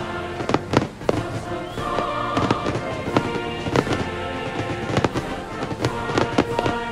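Fireworks finale: a rapid, irregular barrage of aerial shell bursts and launches, several bangs a second, with music playing under them.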